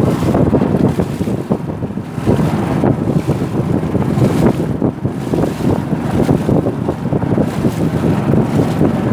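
Strong wind buffeting the microphone, with choppy river water washing against a small wooden canoe.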